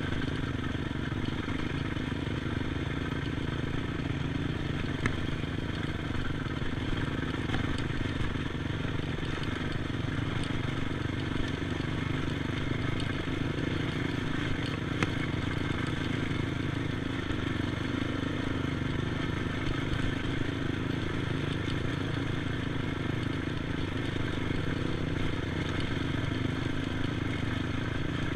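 ATV engine running at a fairly steady speed throughout, with a few sharp clicks from the ride.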